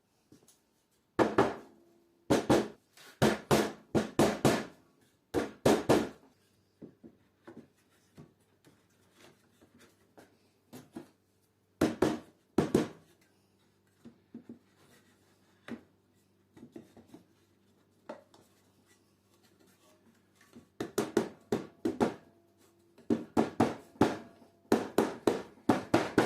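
Wooden boards and holders of a rack knocking and clacking as they are fitted together by hand: clusters of sharp wooden knocks, with quieter taps in a lull through the middle.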